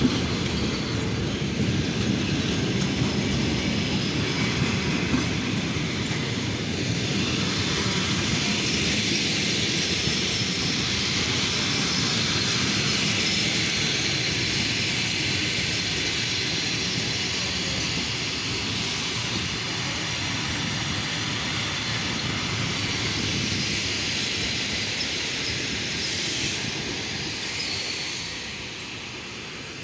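Passenger coaches of an express train rolling past, their wheels making a steady low rumble on the rails with a high hiss over it; the sound drops away near the end.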